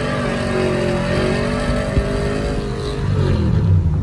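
Cammed 5.3-litre LS V8 truck engine through a Carven R-series muffler pulling under throttle, the exhaust note holding steady and then dropping in pitch as the throttle eases off about three seconds in. It is held back from full throttle because the transmission is slipping.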